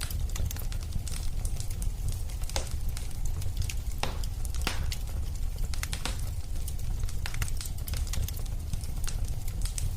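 Wood fire crackling: scattered sharp pops and snaps over a steady low rumble, with a few louder pops about four to five seconds in.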